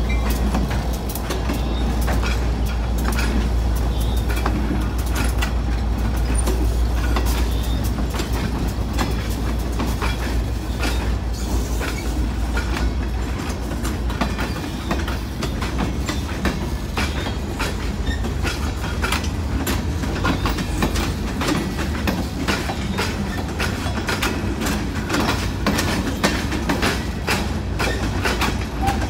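Freight train passing close: the diesel locomotive's engine gives a low rumble that drops away about halfway through. Steel gondola cars follow, their wheels clacking steadily over the rail joints.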